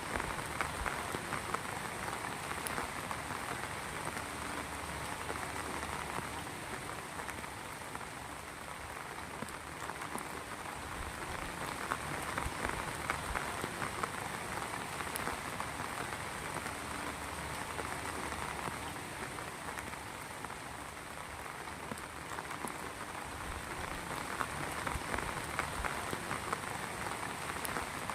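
Heavy rain falling steadily, a dense patter of drops hitting surfaces that swells and eases slightly every few seconds.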